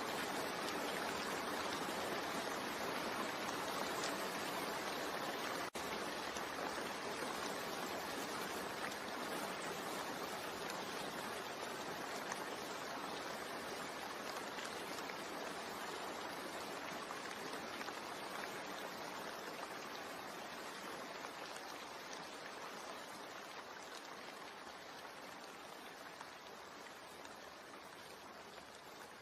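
Steady rain falling, an even hiss of water that slowly fades out, with a split-second dropout about six seconds in.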